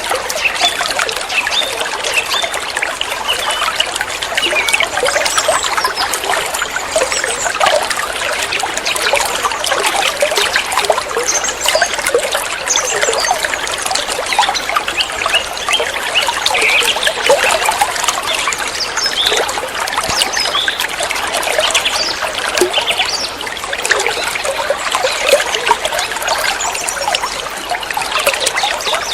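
Water trickling and babbling steadily, a continuous patter of small splashes.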